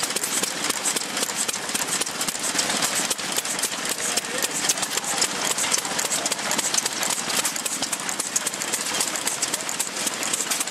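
Crossley Model H 2 HP stationary engine running, with a steady rapid clatter.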